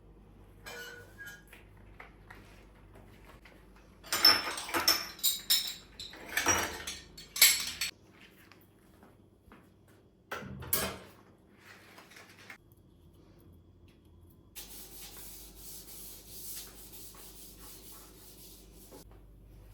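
Household items being handled during cleaning: about four seconds of sharp clattering and knocking, a single knock a few seconds later, then a steady hiss for several seconds near the end.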